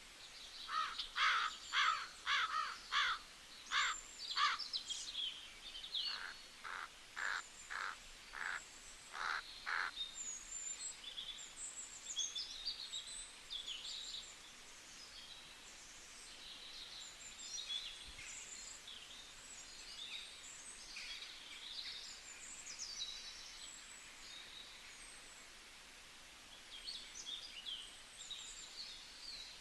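Wild birds calling. One bird gives a run of short, loud, repeated calls, about two a second, for the first ten seconds. Smaller birds then chirp high and scattered over a faint steady background hiss.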